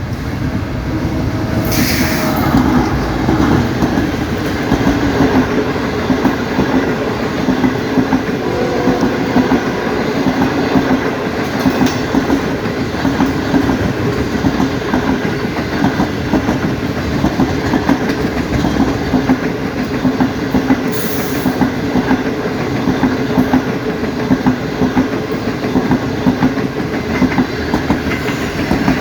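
Pakistan Railways Green Line Express passenger train running on the rails, its wheels clicking steadily over the rail joints. There is a brief high hiss twice.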